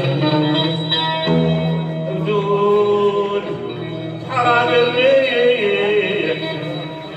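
Live music: a singer holding long notes that waver and bend, over sustained instrumental accompaniment.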